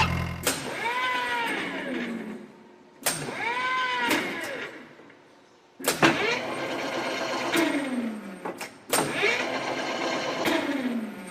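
Four drawn-out animal calls about three seconds apart, each rising and then falling in pitch, ending in a downward slide.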